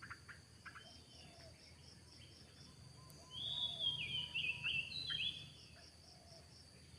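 A wild bird calling: a quick run of short, falling, high chirps about halfway through, with a few fainter chirps near the start. Under it a steady high insect drone with an even pulse.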